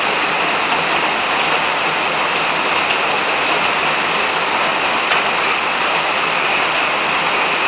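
Steady rain falling, with a chorus of frogs calling through it.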